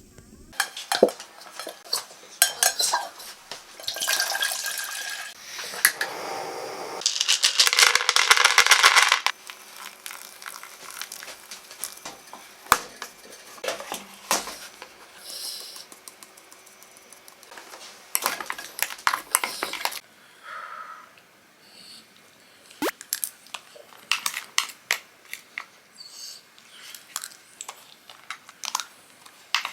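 Dishes and utensils being handled: scattered clinks, clatters and knocks, with a louder stretch of dense rustling noise about seven seconds in.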